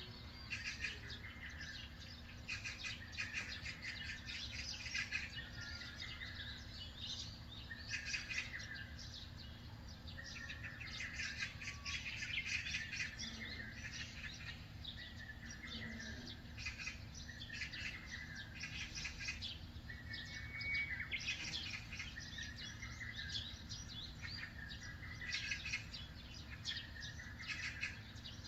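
Many small birds chirping and singing at once, a dense, continuous chorus of short, high calls, over a steady low background rumble.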